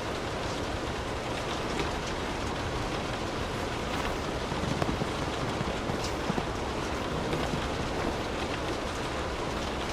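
Steady rain falling, with scattered drops ticking on a surface, over a low steady rumble.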